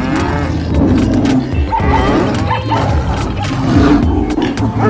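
Lion roaring, mixed with background music.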